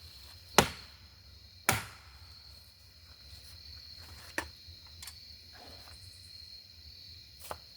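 Two sharp knocks a second apart from the ceiling fan's metal blade brackets, followed by a few fainter clicks, over steady chirping of crickets.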